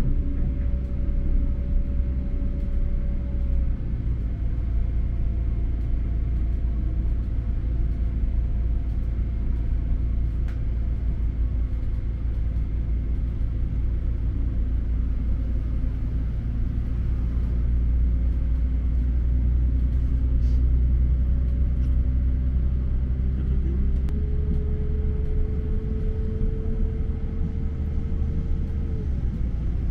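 Diesel multiple-unit train running, heard from inside the carriage: a steady low rumble under a humming engine tone that climbs in pitch about two-thirds of the way through and drops away near the end.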